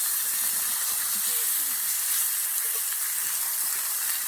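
Food frying in a cast-iron skillet over a campfire: a steady, even sizzle.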